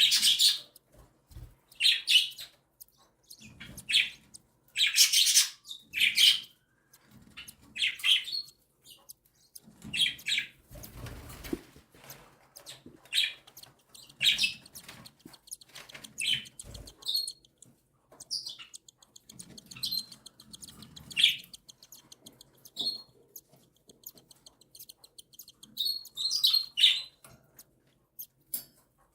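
Cockatiel chicks begging for food: short raspy calls repeated every second or two, then a rapid stuttering buzz for much of the second half, as the mother feeds them.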